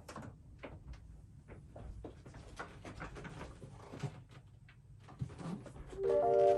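Scattered faint clicks and light rustles of small objects being handled. Near the end, soft mallet-keyboard music starts.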